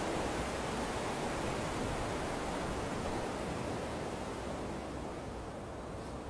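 Steady rushing noise with no distinct events, slowly fading.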